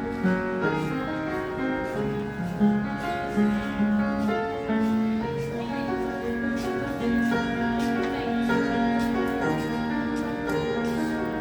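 A piano being played: a continuous flow of notes over held, overlapping chords.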